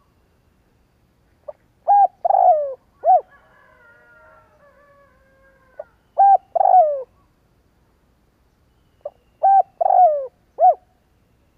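Spotted dove cooing: three phrases a few seconds apart, each a short opening note followed by two or three loud coos, the last sliding down in pitch. Faint twittering from another bird between the first two phrases.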